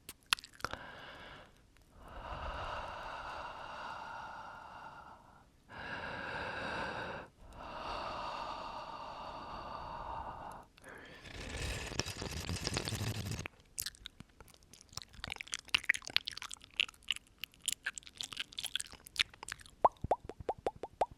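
Close-up ASMR breathing and mouth sounds: four long, slow exhales straight into the microphone, the last one harder, followed by wet mouth clicks and lip smacks that turn into rapid, regular tongue clicks, about five a second, near the end.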